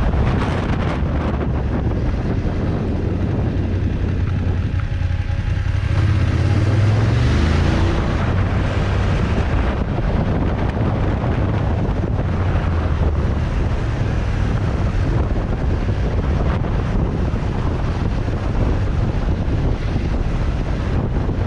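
Motorcycle engine running steadily on the move, under heavy wind rush on the microphone.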